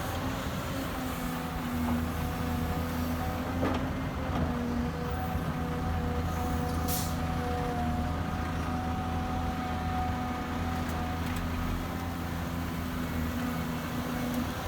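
Excavator's diesel engine running steadily with a low, even hum; a couple of brief clicks stand out, about three and a half and seven seconds in.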